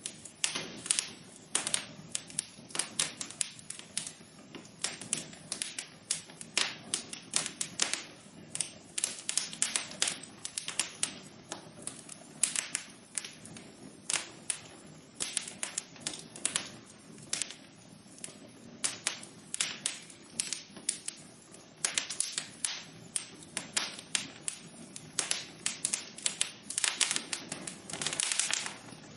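Wood fire crackling in a fireplace: a steady run of sharp, irregular pops and snaps over a soft hiss.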